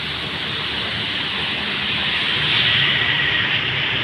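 Heavy rain falling: a steady hiss that grows a little louder past the middle.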